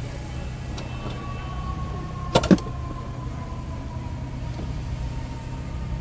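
Two sharp knocks in quick succession about two and a half seconds in, over a steady low hum and a faint drawn-out tone.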